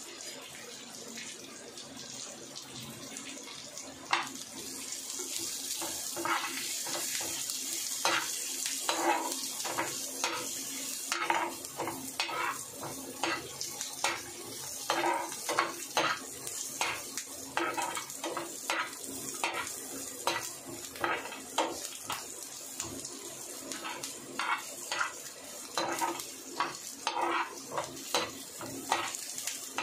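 Sliced onions sizzling in oil in a nonstick frying pan, with a spatula scraping and stirring them in quick repeated strokes from a few seconds in.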